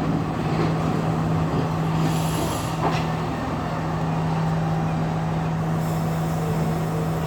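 Class S14 diesel multiple unit running, heard on board: a steady rumble with a constant hum. A brief hiss comes about two seconds in and a single click about three seconds in.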